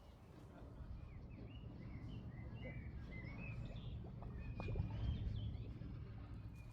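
Low engine rumble that grows louder towards about five seconds in and then eases, with birds chirping repeatedly over it and a few light clicks.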